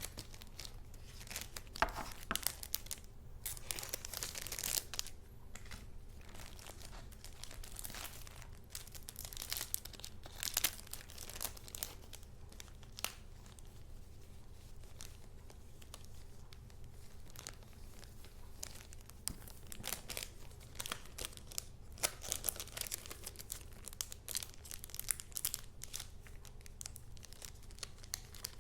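Paper rustling and crinkling in irregular clusters as sheets and paper pieces of a handmade junk journal are handled, over a steady low hum.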